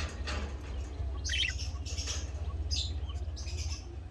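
Budgerigars chirping and chattering in short bursts, about four clusters of high, rapid chirps, over a steady low hum.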